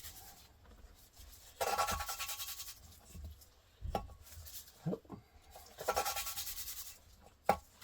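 An engine valve being hand-lapped into its seat in a Volvo 1.8 (4184S11) cylinder head with grinding compound: gritty rasping in bursts of about a second as the valve is spun back and forth on a suction-cup stick, with a few sharp clicks, the loudest near the end. The grit of the compound is still cutting, metal against metal.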